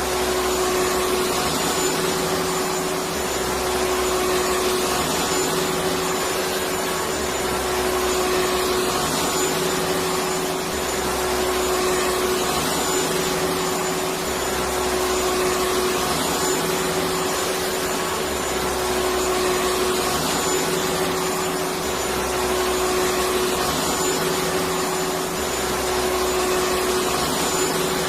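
Electric vacuum cleaner running steadily: a continuous hiss with a steady motor whine, its low hum swelling and fading about every four seconds.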